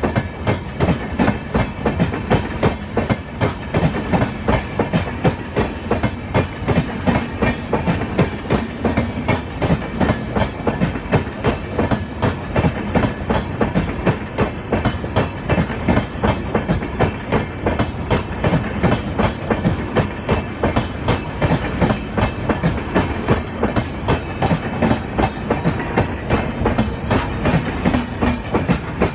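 A train's wagons rolling past close by, the wheels clattering in a steady rhythm over the rail joints.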